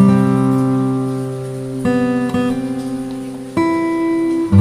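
Background music of strummed acoustic guitar chords, each chord ringing out before the next is struck, with changes about two seconds in and again about three and a half seconds in.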